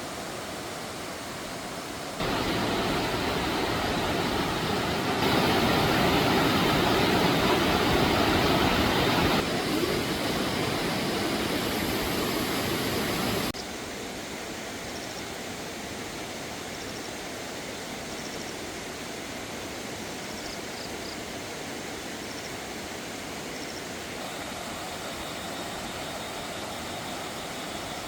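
A steady rushing noise that changes level in abrupt steps: louder from about two seconds in, loudest in the middle, then dropping back near the halfway point. A few faint high chirps sound in the quieter second half.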